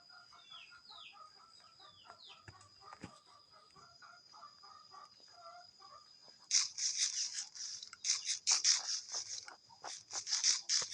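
Faint chicken clucking with a few short bird chirps, then a loud run of rough rustling strokes, several a second, over a steady high-pitched whine.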